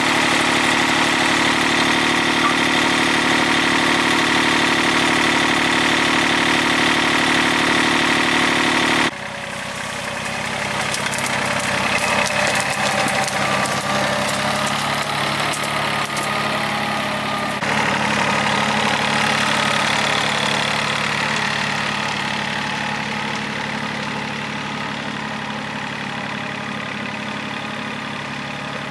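Engine of a repaired farm machine running steadily. Its sound changes suddenly about nine seconds in and again about halfway through, then slowly grows quieter.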